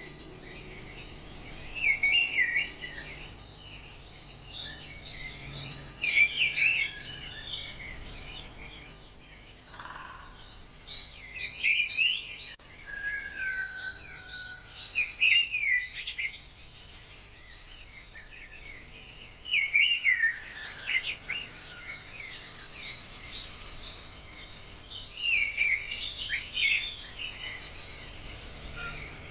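Birds chirping and singing in short bursts of rapid notes every few seconds, over a faint steady hiss.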